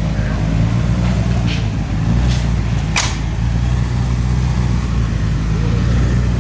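A car engine idling nearby, a steady low drone, with a few short sharp clicks over it, the loudest about three seconds in.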